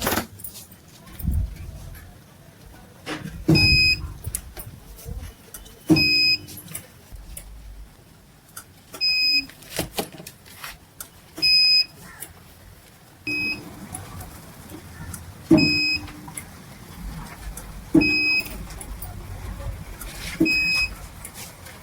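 A 24 V inverter's push button being pressed over and over, about eight times, every two to three seconds. Each press gives a click and a short, steady electronic beep from the inverter, a sign that the freed button is working again.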